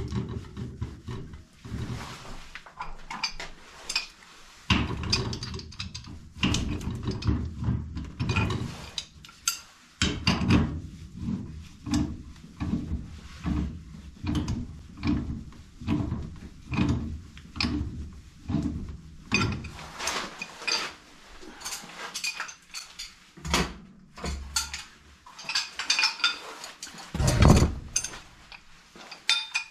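Irregular knocking, clanking and scraping of tools and metal parts as a water heater tank is shifted and levelled, with one heavier thud near the end.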